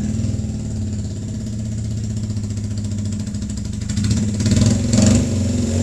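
Motorcycle engine idling with a fast, even beat, getting louder about four seconds in.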